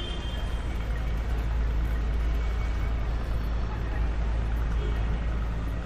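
City street ambience on a rainy, windy day: a steady deep rumble with an even hiss over it, the low rumble swelling slightly in the middle and easing near the end.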